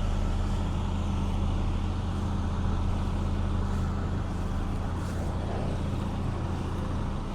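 Vehicle engine running steadily with a low, even drone, working under load to pull a truck stuck in mud.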